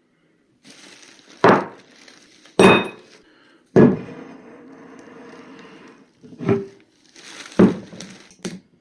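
Glassware clinking and knocking: about six sharp glass knocks with ringing, and a steady hiss between two of them.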